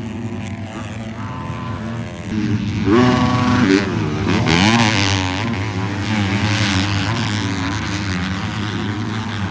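Several 250-class motocross bikes racing, their engines revving up and down. They are loudest as bikes go past, about three to five seconds in.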